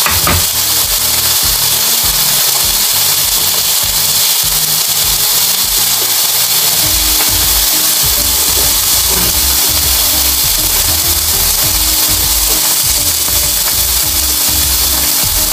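Close-miked eating sounds: chewing and mouth noises while eating grilled pork steak, with irregular low strokes over a steady loud hiss.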